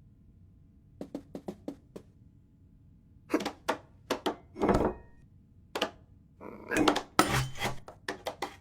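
A quick run of about six light taps, then a series of louder knocks and thuds.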